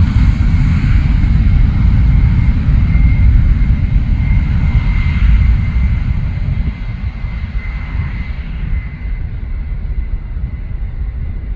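Rolls-Royce jet engines of a Boeing 777-300 at high power: a heavy rumble with a steady high whine. It fades noticeably a little past halfway as the aircraft moves away.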